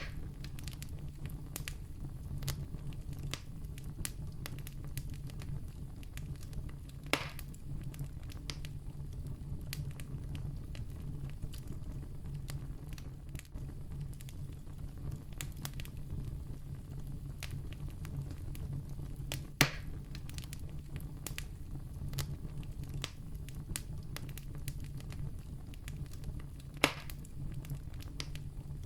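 Campfire burning steadily with a low rumble and constant light crackling, with three louder pops, about seven, nineteen and twenty-seven seconds in.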